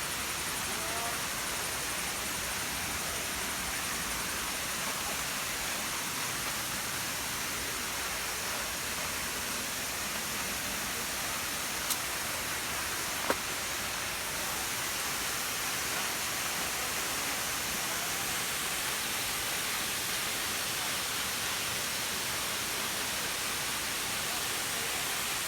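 Steady rushing hiss of a tall waterfall, about 100 m high, falling water making an even noise. Two short sharp clicks about 12 and 13 seconds in.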